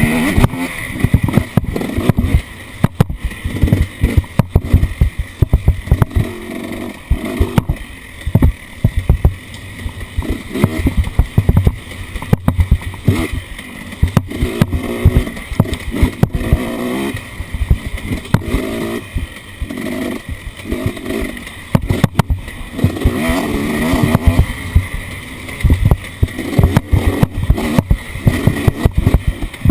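Off-road vehicle engine running and revving up and down while driving over rough ground, with frequent sharp knocks and bangs from the jolting ride.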